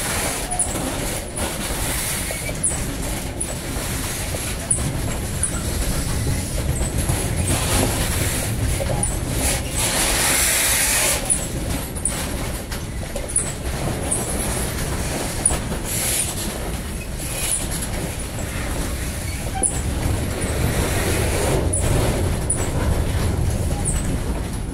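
Slow-moving freight train of open-top box wagons rolling past close by: a steady low rumble from the wheels, with sharp clicks recurring as the wheelsets cross rail joints. A brief louder, hissy stretch comes about ten seconds in.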